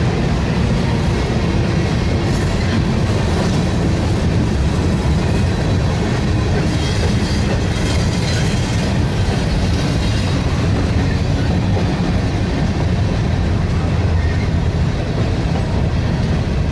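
Freight train gondola cars rolling across a steel railroad bridge: a loud, steady rumble of steel wheels on rail with clickety-clack.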